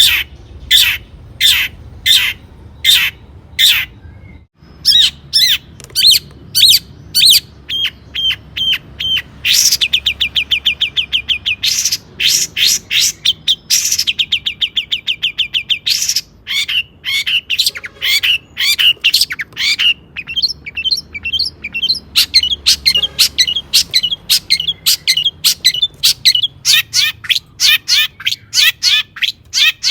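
Long-tailed shrike (cendet) singing loudly: strong repeated high notes about two a second, then rapid trills and fast, varied chattering phrases, with a brief break about four seconds in.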